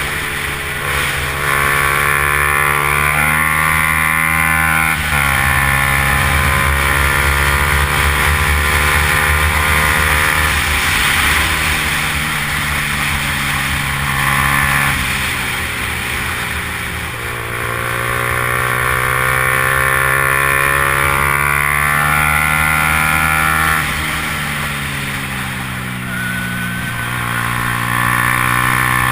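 Yamaha R15's single-cylinder engine under race throttle, climbing in pitch through the gears with several quick shifts and a stretch of easing off and downshifting about halfway through before pulling hard again. A steady low rumble of wind runs beneath it.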